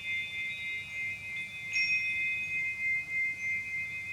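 Soft ringing chime tones, several pitches sustained together, with a new strike about halfway through as relaxation background music.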